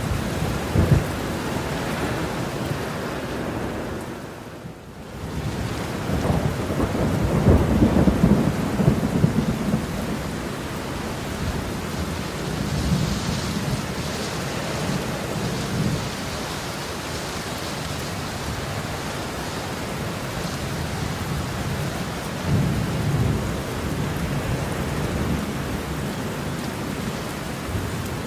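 Heavy rain falling steadily, with rolling thunder rumbling low and loud from about six to ten seconds in and again more briefly near the end. The rain briefly drops away about four seconds in.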